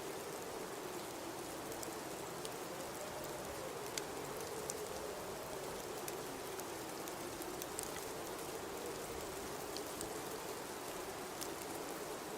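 Blizzard wind howling with a slowly wavering pitch over a steady hiss of blowing snow, with scattered light ticks throughout.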